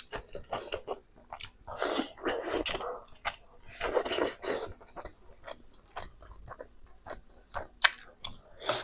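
A person chewing and biting pork close to the microphone: irregular wet mouth clicks and crunches, with two longer, noisier stretches of eating about two and four seconds in.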